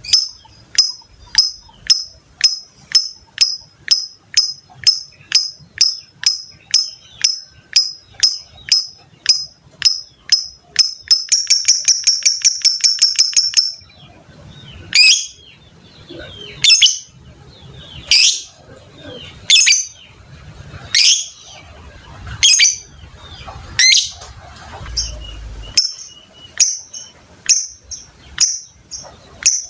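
Lovebird calling: sharp high chirps repeated about twice a second, breaking into a fast chattering trill (the 'ngekek') about eleven seconds in, then louder, harsher calls about a second and a half apart.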